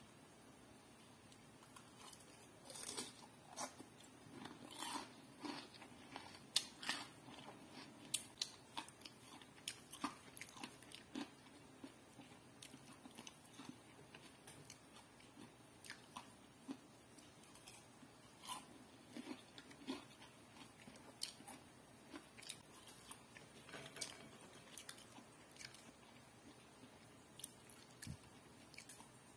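Crispy breaded fried chicken skin crunching as it is bitten and chewed, in faint, irregular crackles.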